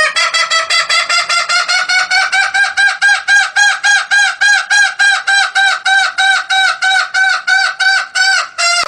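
Junglefowl calling: a fast, very even run of short clucking notes, about five a second, that cuts off suddenly at the end.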